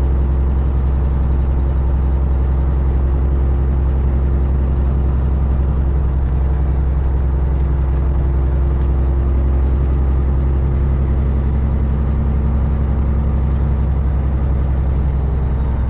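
Semi truck's diesel engine running steadily, a low drone that holds one pitch.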